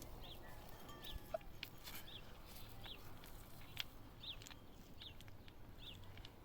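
Bird chirping, faintly: short high peeps repeated about one or two times a second, with a few light clicks between them.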